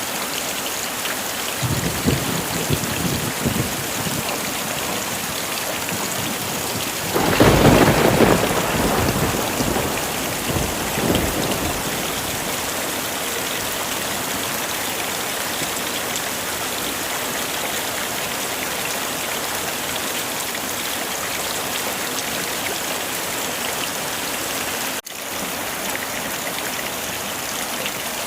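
Heavy rain falling steadily, with thunder. A low rumble comes about two seconds in, then a louder clap about seven seconds in rolls away over the next few seconds. The sound drops out for a moment near the end.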